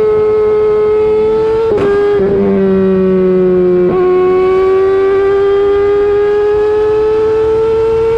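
Kawasaki ZX-10R inline-four engine running at high revs under acceleration, a high steady engine note. It breaks briefly twice, about two and four seconds in, like quick upshifts, and the pitch climbs slowly after the second one.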